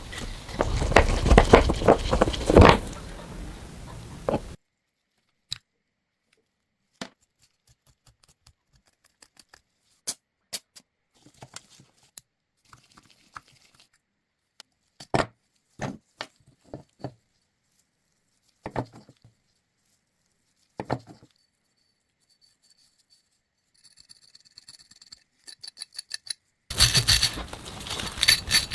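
Hand-tool work on rusted machine parts: a few seconds of loud scraping, then scattered clicks and knocks of tools and metal parts being handled, and a short run of fast, faint high ticking. Near the end, loud rhythmic scraping, like rubbing or filing, starts again.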